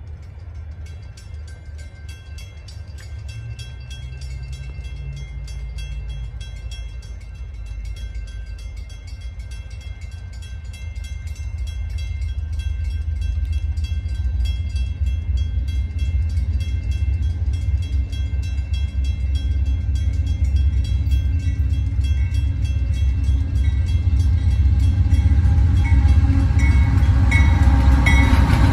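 A train approaching: the low rumble of diesel locomotives grows steadily louder.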